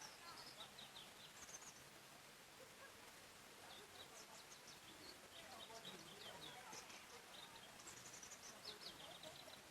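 Faint songbirds singing in a forest: several phrases of quick high chirps, near the start, about four seconds in, and again in the last two seconds, over a soft steady background hiss.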